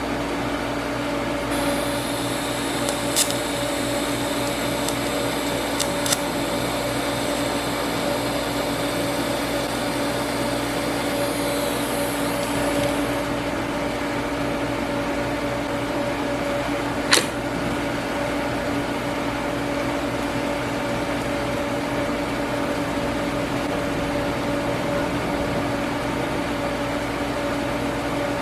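TIG arc hissing while a cast iron handle is welded with cast iron filler rod, from about a second and a half in until about thirteen seconds. A few sharp clicks come at about three and six seconds and a louder one at about seventeen seconds. A steady machine hum runs under it throughout.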